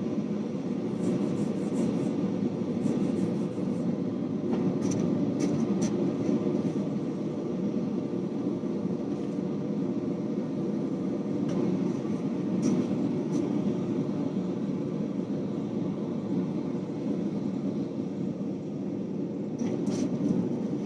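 Steady roar of a forge running, with scattered sharp hammer blows in small clusters during the forge-welding of a 1095 and 15N20 steel damascus billet.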